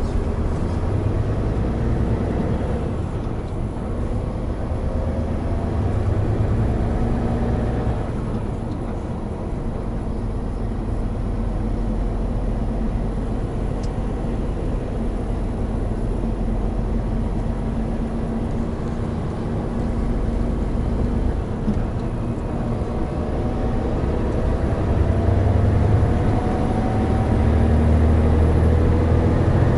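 Hino Profia heavy truck driving: steady diesel engine and road noise that rises in pitch and loudness near the end as the truck speeds up.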